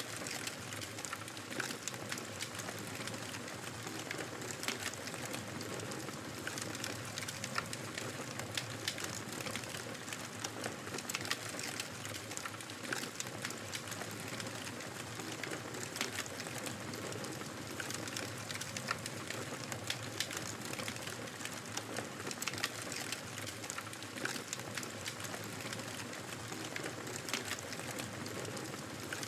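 Wood fire crackling in a fireplace: frequent irregular sharp pops and snaps over a steady hiss.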